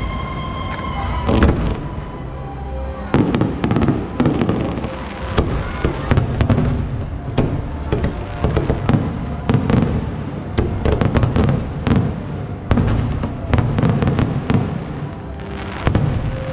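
Aerial fireworks exploding over a lake: one bang just over a second in, then from about three seconds in a rapid, continuous barrage of bangs at irregular intervals.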